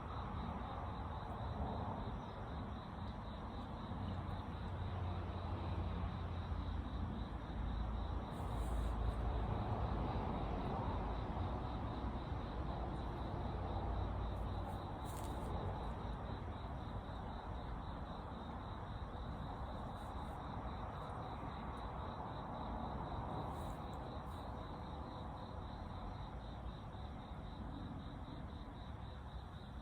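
Insects, crickets by their sound, chirping in a steady, fast pulsing trill over a continuous low outdoor rumble.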